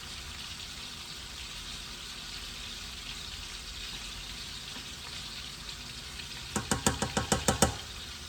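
A pot of red beans with tomato sauce cooking on the stove, giving a steady sizzling hiss. Near the end, a quick run of about ten sharp knocks as a spoon stirs against the pot.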